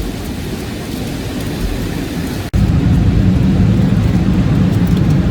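Car wash machinery and water spray heard from inside the car: a steady rushing noise. About two and a half seconds in it cuts off abruptly, and a louder, deeper rumble follows.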